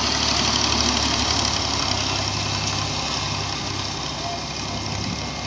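Diesel engine of a piece of heavy earthmoving machinery running steadily, slowly growing fainter.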